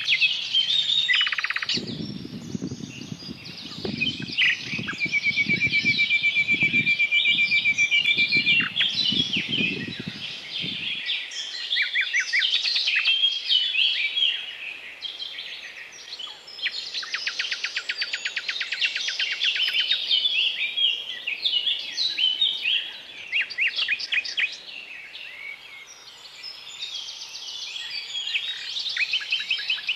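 Several songbirds singing at once, with chirps and fast, even trills. A low murmur sounds beneath them for the first ten seconds or so.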